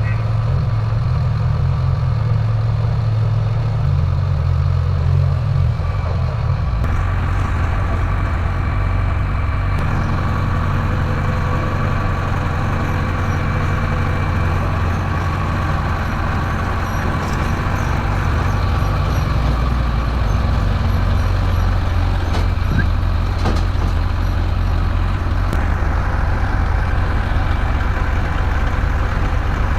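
Heavy diesel engine of an earthmoving machine running steadily, its sound changing slightly about seven seconds in.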